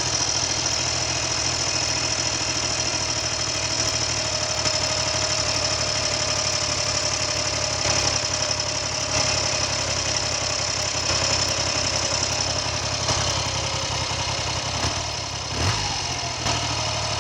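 Triumph Trident three-cylinder motorcycle engine idling steadily, just after its tickover screw was turned down a little; the idle stays smooth and stable, a sign the engine and carburettors are running happily.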